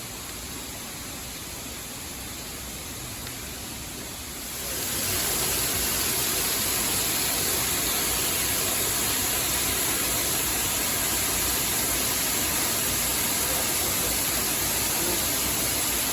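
Steady rushing noise with no tone or rhythm, which grows louder about four and a half seconds in and then holds steady.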